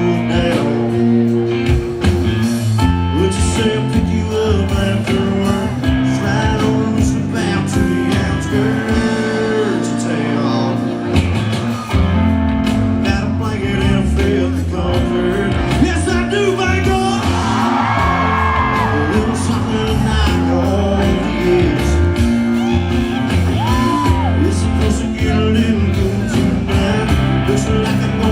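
Live country rock band playing at full volume, with electric guitars over a steady drum beat and singing.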